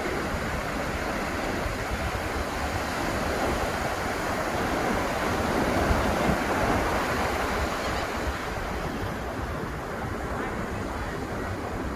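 Ocean surf washing onto the beach, a continuous roar of breaking waves that swells about halfway through and eases toward the end, with wind buffeting the microphone.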